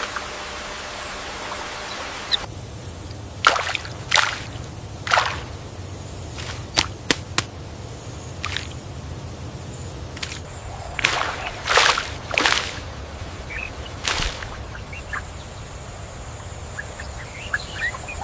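Water ambience broken by about a dozen sharp, irregular splashes and slaps of water, the loudest a few seconds in and again about two-thirds of the way through. Faint bird chirps come near the end.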